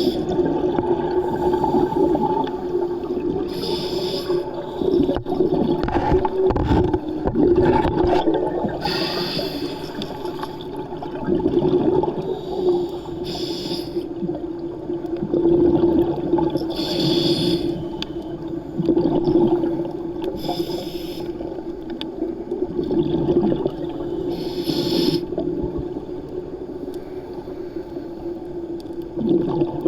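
Underwater sound of a scuba diver breathing through a regulator: a burst of exhaled bubbles about every four seconds over a steady low hum.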